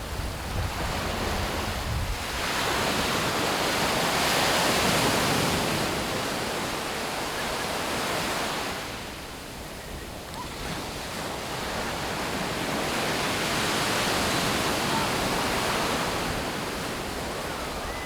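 Sea waves breaking and washing up on a beach, swelling twice with a lull in the middle. There is some low wind rumble on the microphone at the start.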